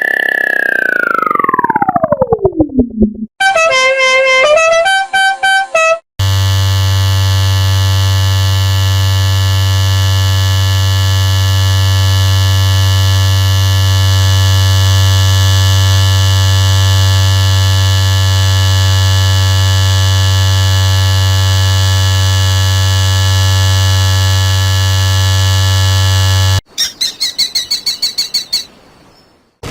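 A string of separate electronic sound effects: a tone sliding steadily down in pitch over about three seconds, a quick run of stepped beeping notes, then a long steady low buzzing tone lasting about twenty seconds, and near the end a rapid series of high chirps.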